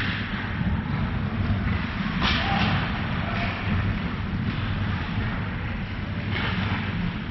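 Ice hockey rink ambience during a game: a steady low rumble, with brief hissing bursts about two seconds in and again near the end.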